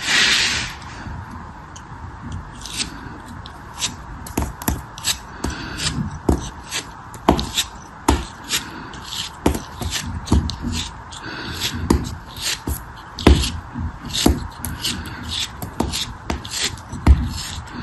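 Close-up hand-work sounds of a crumbly material being cut or crushed: a run of crisp cracks and taps at an uneven pace, about one or two a second, over a soft rustle, with a short hiss at the very start.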